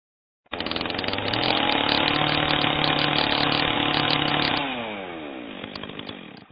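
A small engine running fast at a steady pitch, then slowing down with a falling pitch and fading somewhat about four and a half seconds in. It starts abruptly and cuts off abruptly.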